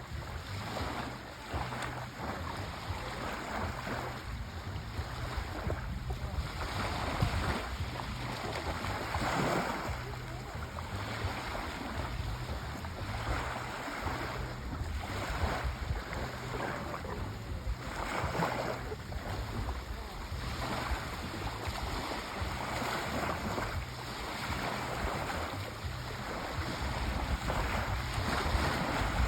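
Sea waves washing onto the shore in a continuous rush, swelling and easing every few seconds over a low rumble.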